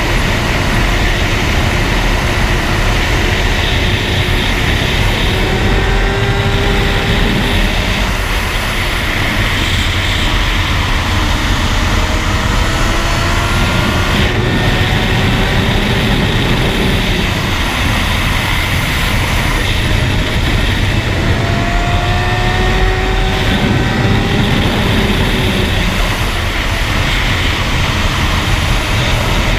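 Steady wind rush over a riding motorcycle, with the engine of a 2007 Suzuki GSX-R 750 (inline-four, Akrapovic exhaust) underneath, its pitch climbing slowly several times as it pulls.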